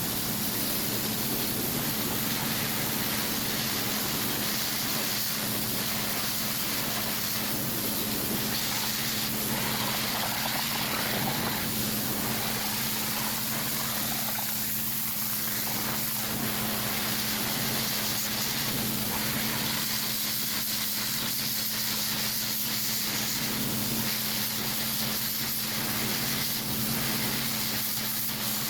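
Pressure washer spraying: a steady hiss of water over a steady engine hum.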